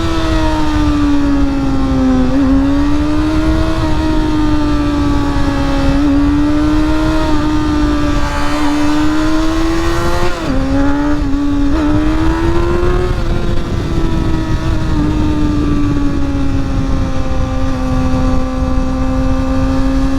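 Motorcycle engine running at steady high revs, its pitch rising and falling with the throttle and dropping sharply twice, about two seconds in and about halfway through, as gears change. Heavy wind rush on the helmet microphone runs underneath.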